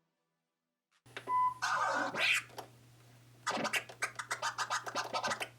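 Record scratching played through a DJ controller to test a newly installed Innofader Pro 2 crossfader: after about a second of silence, a few scratch strokes, then a fast run of crossfader cuts chopping the sound about seven times a second.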